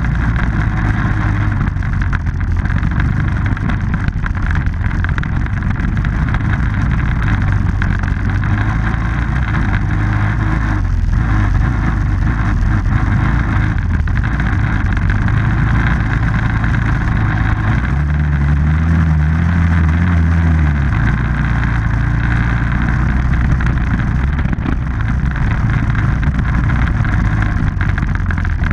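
Off-road vehicle engine running on a ride, its pitch shifting with the throttle. It revs higher for about three seconds about two-thirds of the way through.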